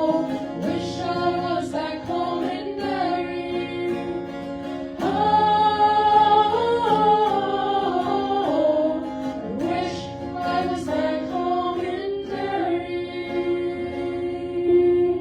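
A vocal group singing in harmony, several voices holding long sustained notes together; the song stops abruptly right at the end.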